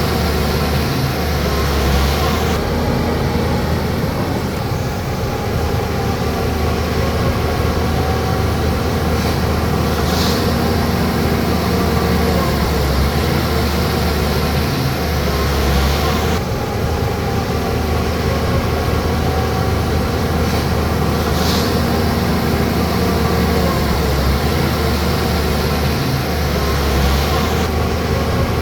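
Bulldozer's diesel engine running steadily under load, its pitch wavering slightly as the load changes, with a couple of short hissing sounds.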